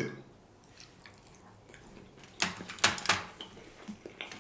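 Eating sounds during a sushi meal: a quiet stretch, then a few sharp clicks and taps bunched about two and a half to three seconds in, with two more near the end.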